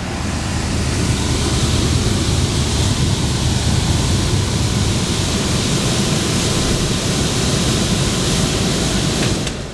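Lennox commercial rooftop air conditioner running in cooling mode, its fans blowing a loud, steady rush of air with a low rumble underneath. The sound falls away sharply near the end.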